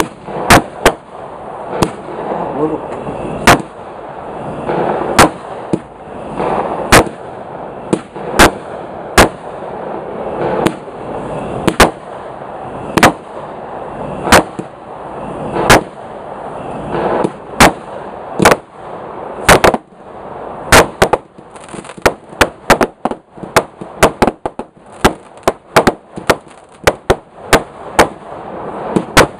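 Consumer firework cakes firing in a chained sequence: sharp bangs of bursting shells about one a second, with a hiss between them. After about 22 seconds they give way to a faster string of bangs, several a second.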